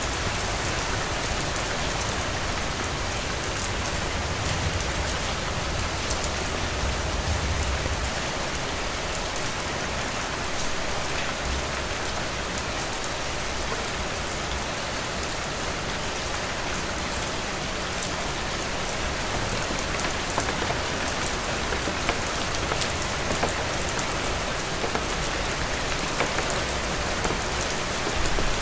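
Heavy rain falling steadily: an even hiss with a fine patter of individual drops, and a low rumble underneath that swells about four to eight seconds in.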